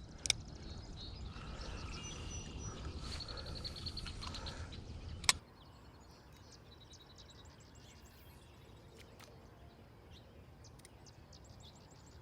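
Birds chirping and trilling faintly over outdoor background noise. A low rumble for the first five seconds ends with a sharp click, after which only the faint bird calls remain.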